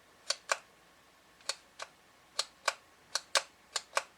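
A dozen or so sharp plastic clicks, several in quick pairs about a quarter second apart. They are typical of a CB microphone's push-to-talk switch being pressed and released over and over to key the transmitter for a test.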